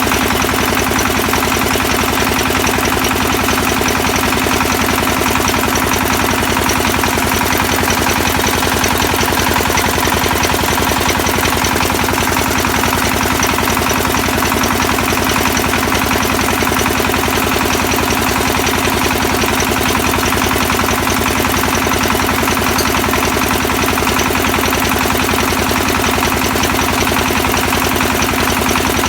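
XY-1B well-drilling rig running steadily on its engine, a fast, even mechanical pulsing that holds unchanged throughout.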